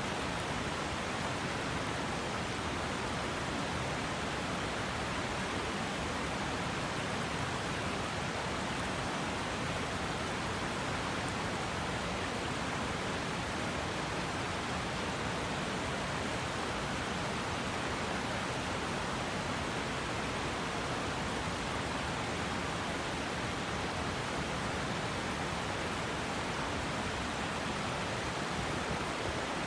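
A river's water rushing steadily, an even, unbroken rush with no pauses or changes.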